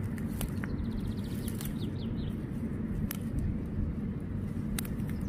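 Small birds chirping in short rapid series over a steady low rumble outdoors, with a few sharp clicks, about half a second in, around three seconds and near the end.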